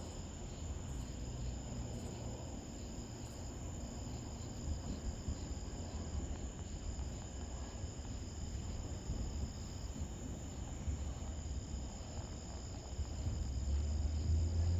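Night insects, crickets, trilling steadily in several high tones, some pulsing on and off, over a low rumble of distant thunder that swells near the end.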